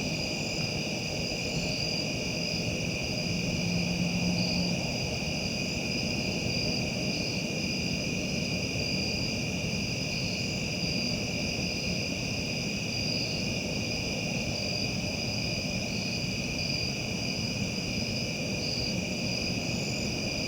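Crickets and other insects chirring steadily at two high pitches, the higher one pulsing, over a low rumble of outdoor background noise. A brief low hum comes in about three seconds in and fades a couple of seconds later.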